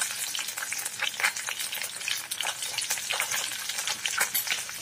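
Goat brain frying in hot oil in a metal pot: steady sizzling with many irregular small crackles and pops of spattering oil.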